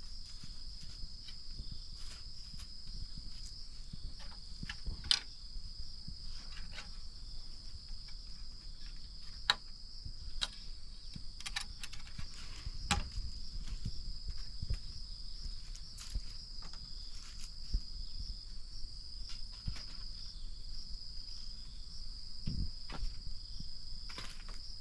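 Steady insect chorus, a constant high-pitched trill, with scattered light clicks and knocks over it.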